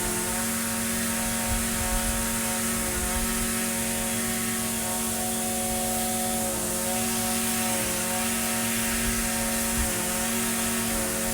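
Echo SRM-2620 string trimmer's small two-stroke engine running steadily at a constant speed, with a slight waver in pitch about midway.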